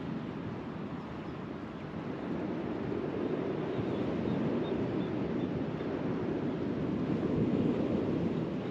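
Waves washing ashore in a steady rush that swells and eases, with wind buffeting the microphone.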